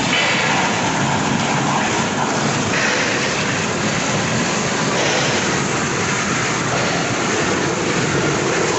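Heavy rain falling, with water rushing steadily through a drain.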